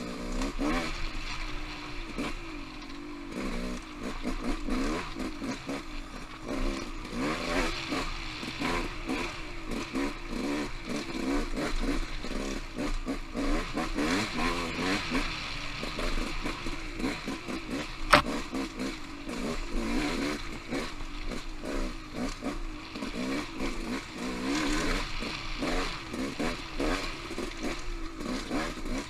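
Off-road motorcycle engine riding singletrack, its revs rising and falling constantly with throttle changes, over a steady clatter of the bike over rough, rocky ground. One sharp knock stands out about two-thirds of the way through.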